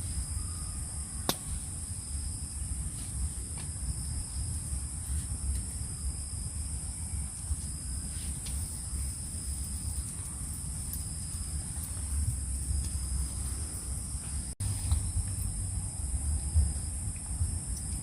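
Night insect chorus of crickets: a steady, high-pitched drone with a fainter second tone beneath it, over a low rumble and a few scattered ticks.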